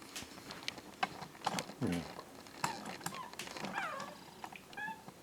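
An orange-and-white domestic cat meowing several times in short, gliding calls, one falling in pitch near the end, as it asks to be fed. Light clicks and rustles fall between the calls.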